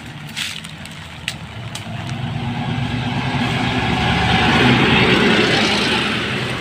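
A motor vehicle's engine running, growing steadily louder over a few seconds as it comes closer, then easing slightly near the end.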